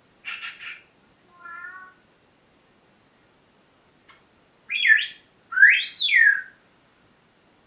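Pet parrot calling in separate bursts: a short raspy call, a brief wavering whistled note, then two loud swooping whistles, the last rising and falling and the longest and loudest.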